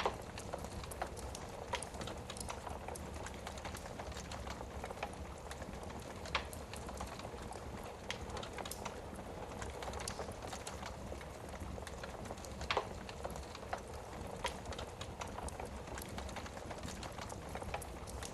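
Wood fire burning in a fireplace: a steady low hiss and flutter of flames with scattered sharp crackles and pops from the burning logs, two of them louder, about six and thirteen seconds in.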